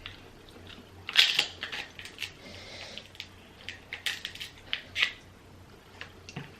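Shells of boiled seafood being cracked and broken apart by hand: irregular sharp cracks and crunches, the loudest about a second in and again around four and five seconds.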